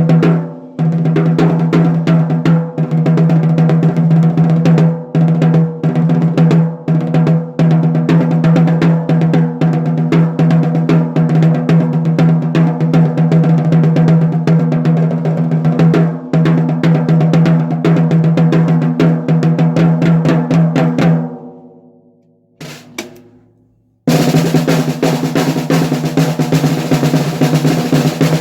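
Aluminium 14x6.5" snare drum with ten lugs a side and inward-curved hoops, played in fast strokes and rolls with a strong low ring under the hits. About three quarters of the way through the playing stops and the drum rings out, one single stroke follows, and after a brief silence fast rolls start again near the end.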